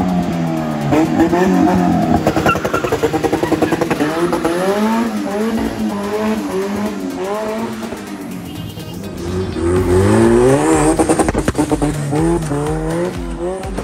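Turbocharged Toyota 5A four-cylinder engine revving hard, its pitch climbing and dropping in repeated pulls, with a rapid stutter at the top of some revs.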